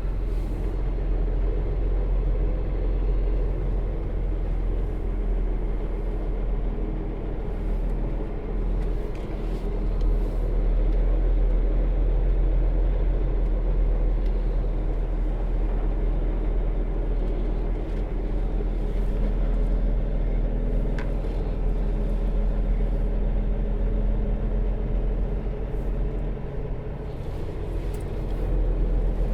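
Semi truck's diesel engine running steadily with a deep rumble, swelling slightly in a couple of places as the truck is maneuvered into a parking spot.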